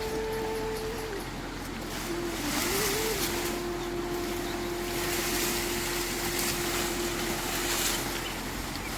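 Steady rushing water noise, like heavy rain or a fast stream. Under it a single thin tone holds long notes, stepping up in pitch near the start and then holding one note.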